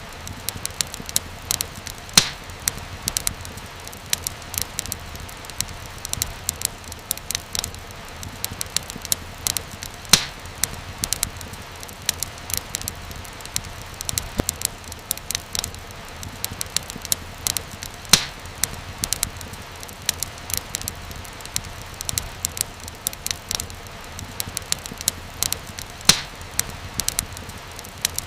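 Wood fire in a fireplace crackling: a dense run of small snaps with a louder pop about every eight seconds, over a low steady rumble.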